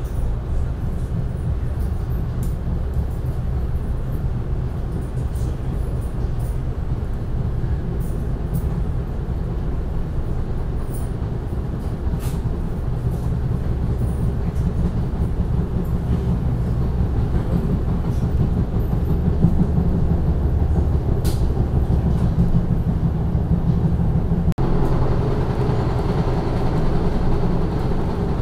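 Steady rumble of a moving passenger train heard from inside the car, with faint scattered clicks and rattles. About three-quarters of the way through there is a short dip, and the sound then turns louder and brighter.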